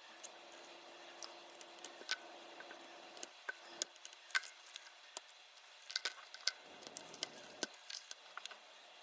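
Irregular small clicks and light taps of a compact digital camera and small tools being handled during disassembly. The clicks come in uneven clusters, thickest around the middle and again about six to eight seconds in.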